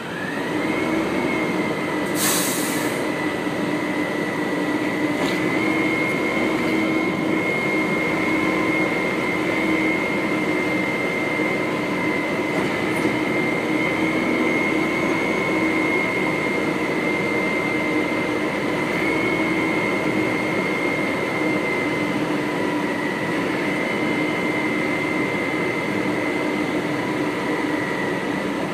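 Garbage truck running with a steady high whine held over its engine noise, and a brief hiss about two seconds in.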